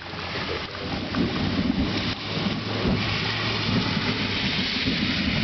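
Rain pouring steadily in a thunderstorm, a dense hiss that grows a little louder about a second in, with irregular low rumbling underneath.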